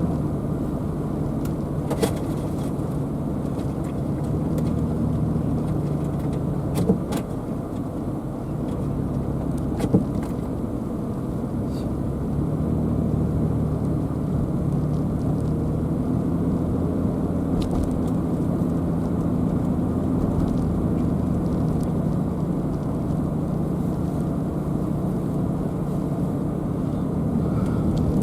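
Car driving along a road: a steady low engine hum and road noise, with the engine note shifting in pitch as speed changes. Three short knocks come through at about 2, 7 and 10 seconds in.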